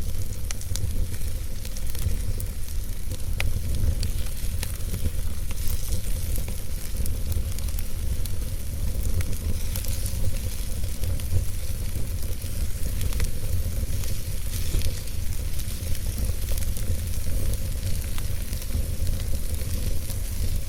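Log fire burning in a fireplace, with a steady low rumble and hiss and scattered sharp crackles and pops.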